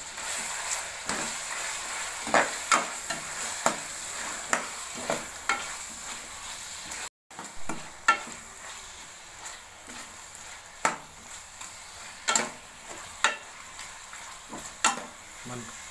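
Chicken with a fresh green paste of coriander, mint and green chilli being stirred in a sizzling karahi: a steady frying hiss under irregular knocks and scrapes of the spoon against the pan. The sound breaks off for a moment about seven seconds in.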